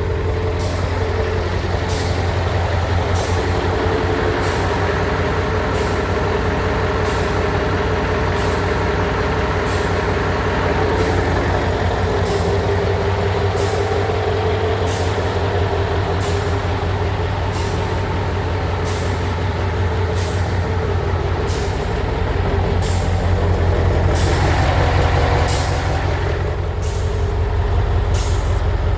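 Scania truck's diesel engine idling steadily, with a regular light click about once a second over it. The engine note swells briefly about three-quarters of the way through, then settles back.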